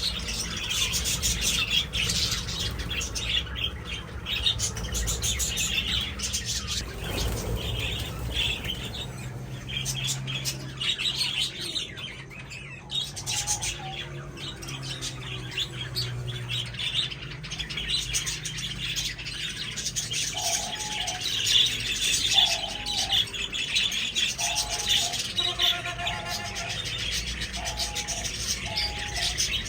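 A flock of budgerigars chirping and chattering continuously. In the last ten seconds a lower, short call from another bird repeats about six times over the chatter.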